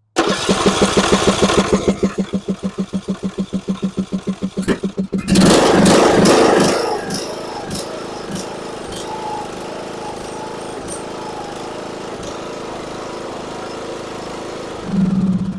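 John Deere E100 riding mower's engine cranking over on the starter in rapid even pulses, catching about five seconds in and settling to a steady run, with a brief louder swell near the end. It runs with the carburetor's fuel shut-off solenoid removed and its port blocked by a finger, showing that the solenoid, which does not retract, was keeping fuel out.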